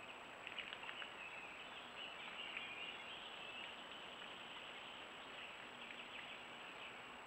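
Faint high bird chirps, clustered in the first three seconds with a few more later, over a trail camera's steady hiss and a constant high electronic whine.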